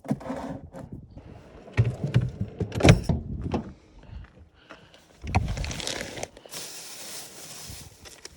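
Camp cooking gear being handled: a series of knocks and clunks, the loudest about three seconds in, then a clatter and a steady high hiss near the end.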